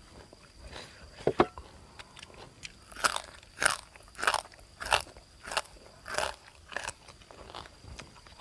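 Close-miked chewing of crunchy food, a crisp crunch about every two-thirds of a second through the second half, with one sharp click a little over a second in.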